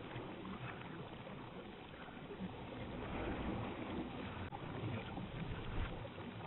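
Moving water, splashing and lapping unevenly, with a low rumble underneath.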